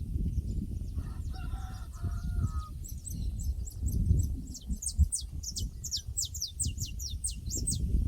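A rooster crowing faintly about a second in, followed by a small bird's fast series of high, falling chirps, about four or five a second, over a steady low rumble.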